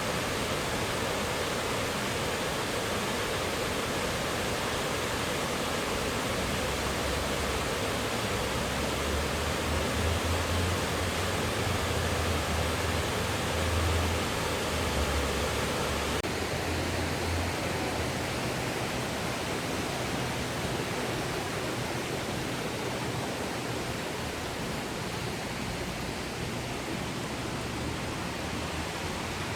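Steady rushing of a man-made garden waterfall, water pouring over rock. A low rumble swells under it for several seconds in the middle.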